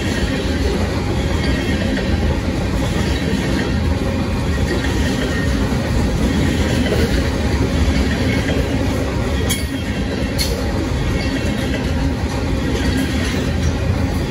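A freight train's tank cars rolling steadily past at speed: a continuous rumble and rattle of steel wheels on rail. Two sharp knocks come about a second apart, some ten seconds in.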